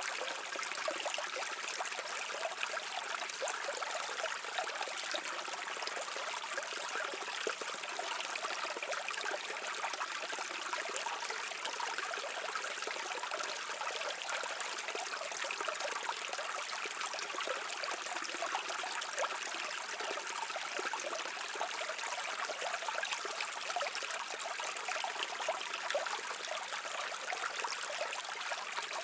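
A shallow brook running steadily, a continuous babble and trickle of water that sits high and hissy with little low rumble.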